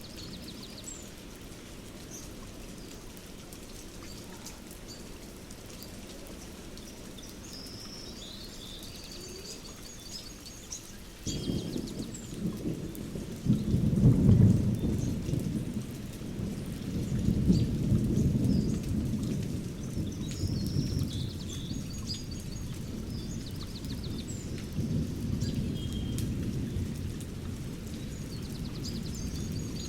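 Thunderstorm recording: steady rain with small birds chirping, then thunder breaks in suddenly about a third of the way through, loudest a few seconds later, swells once more and keeps rumbling under the rain.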